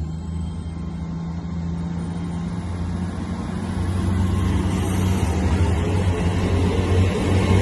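GWR Class 800 bi-mode train passing close by, its underfloor diesel engines humming steadily over the rush of wheels on rail, growing louder as the train goes past.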